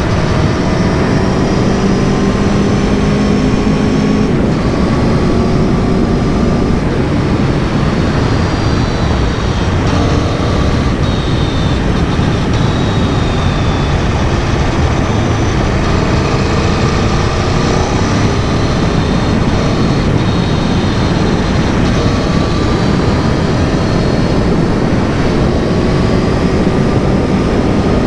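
2022 Aprilia Tuono V4 Factory's V4 engine running at a steady cruise, its pitch drifting slowly up and down as the speed changes, under a constant loud rush of noise.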